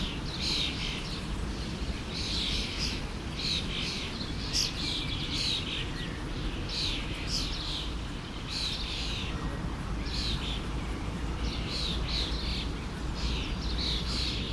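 Songbirds chirping in short repeated phrases, about one a second, over the steady rush of a flowing forest stream.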